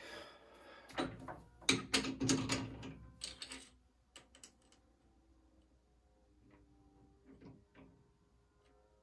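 A quick run of sharp clicks and knocks from about one to four seconds in, then a few faint scattered ticks.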